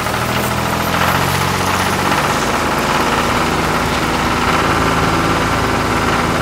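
Heavy vehicle engine running steadily at low revs, a deep even drone with a fast chugging pulse, as a rescue machine hauls a load up.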